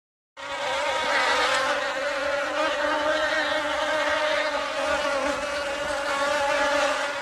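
Flying insect buzzing: a steady, wavering drone of wings that starts abruptly just after the start and holds without a break.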